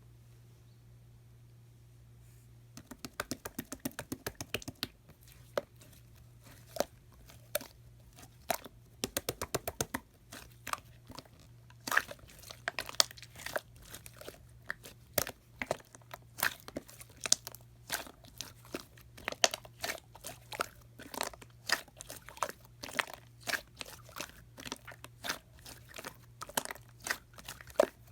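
Slime being squeezed and poked by hand, making a long series of sharp clicks and pops that starts about three seconds in, with fast runs of clicks now and then.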